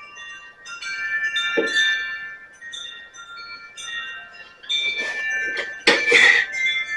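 Overlapping high ringing chime tones, like a wind chime, sounding throughout, with a few clattering knocks; the loudest clatter comes about six seconds in.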